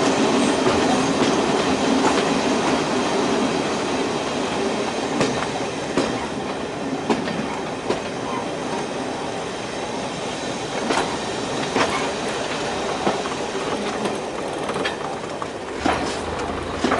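Class 117 diesel multiple unit running along the line, heard on board: steady running noise with a diesel engine hum that fades after the first few seconds, and wheels clicking over rail joints every second or so.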